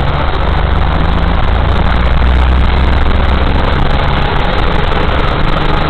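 Car engine running low and steady under a loud, even rushing of water and tyres, heard from inside a car driving along a rain-flooded road.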